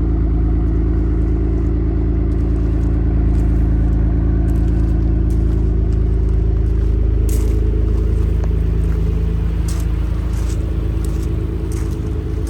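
Car engine running at a steady speed with a heavy low rumble, its pitch holding level. A few light clicks come through from about the middle onward.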